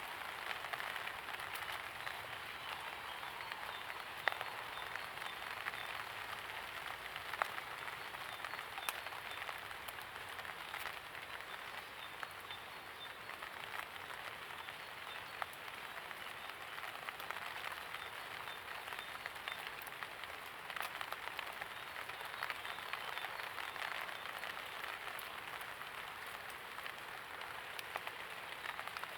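Steady light rain pattering on hard surfaces, with scattered louder drips and drops.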